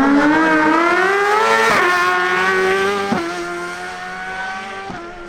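Suzuki GSX-R1000 inline-four at full throttle down a drag strip. Its pitch climbs and drops sharply with upshifts, three times, and the sound fades as the bike pulls away.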